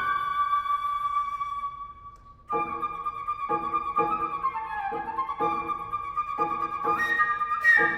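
Flute and piano playing contemporary classical music. The flute holds a long note that fades away, then the piano comes in with repeated chords about once a second while the flute sustains above them, dipping briefly in pitch midway.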